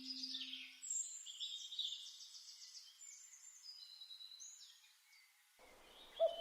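Faint birdsong: several high chirps and trills that thin out after the middle. The last low note of the music dies away in the first second.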